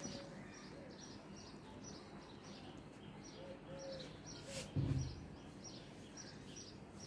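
A small bird chirping over and over, a steady series of short high chirps about two to three a second, with one low thump a little after the middle.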